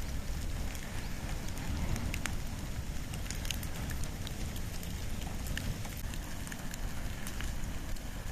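Wood and bamboo fire burning steadily, with a low rumble and many small, irregular crackles and pops.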